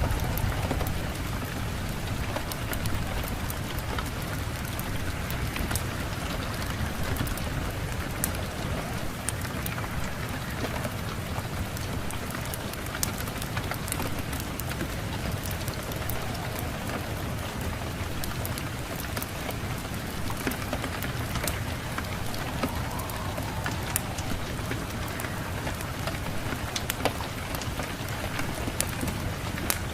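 Steady rain falling, an even hiss with many scattered sharp ticks of drops, over a low rumble.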